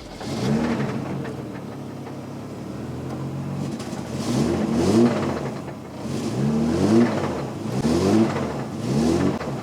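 Mercedes W201's turbocharged M104 straight-six engine running and revved in a series of short throttle blips, the pitch rising and dropping back each time, more often in the second half.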